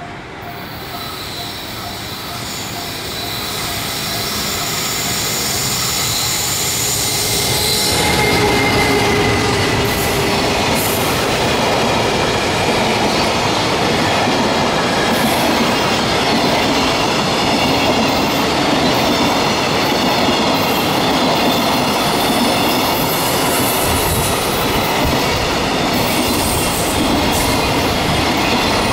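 A JR Freight EF210 electric locomotive growing louder as it approaches and passes about eight seconds in, then a long container freight train rolling by: steady loud wheel-and-rail noise with wheels clicking over rail joints and thin high wheel squeal.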